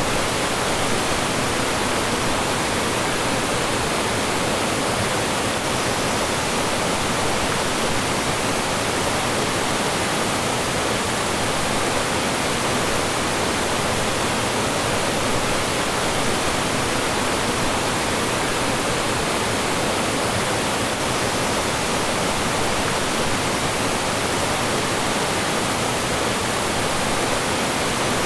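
Mountain stream rushing over rocks in small falls: a steady, full rush of water with no change.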